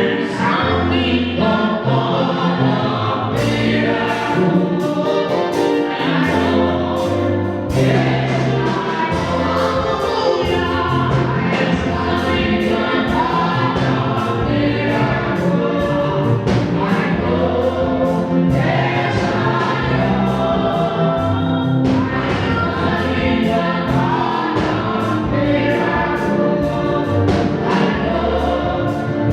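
Gospel choir music: a choir singing over sustained bass and regular percussion.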